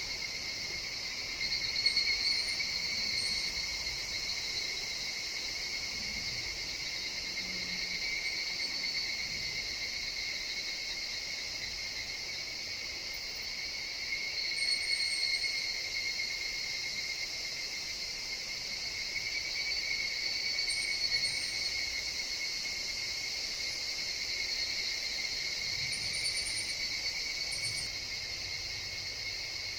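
Forest insect chorus with higurashi (evening cicadas, Tanna japonensis) calling: a continuous shrill ringing that swells about every five or six seconds, with a few faint high chirps over it.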